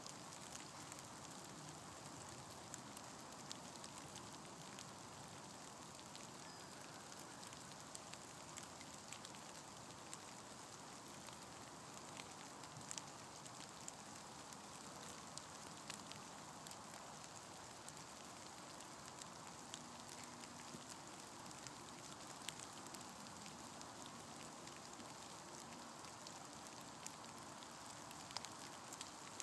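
Faint, steady rain falling, with many small ticks of single drops landing.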